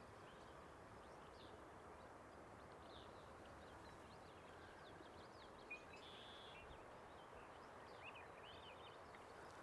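Near silence: a faint steady outdoor hiss with distant small birds chirping now and then, including a short buzzy call a little past the middle.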